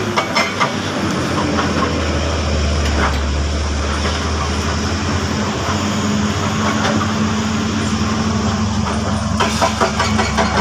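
Heavy diesel earthmoving machinery running steadily: a low engine drone with metallic rattles and knocks over it.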